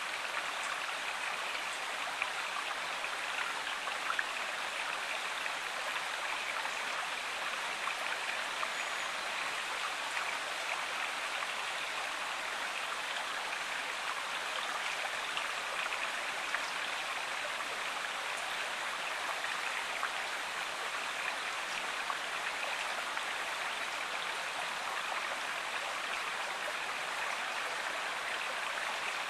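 Stream water flowing steadily, an even rushing hiss with faint scattered droplet ticks.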